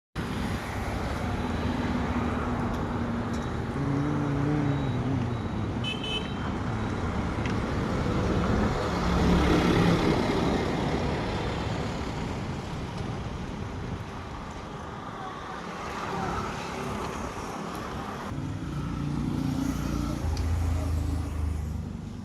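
Road traffic: motor vehicle engines running and passing, loudest about ten seconds in. A brief high tone, like a horn toot, sounds about six seconds in.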